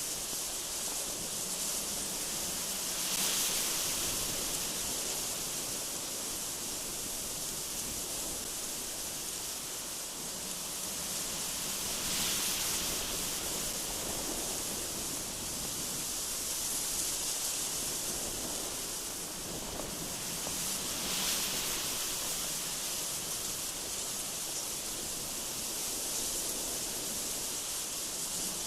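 Strong, gusty wind blowing through mountain trees: a steady hiss that swells in gusts several times.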